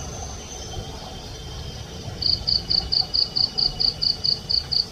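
Night insects calling: a cricket-like chirping in an even run of about five chirps a second starts a couple of seconds in, over a faint steady high insect trill.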